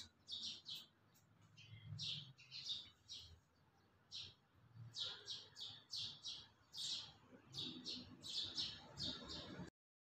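Faint chirping of a small bird: short, high chirps repeated in quick runs, cutting off suddenly near the end.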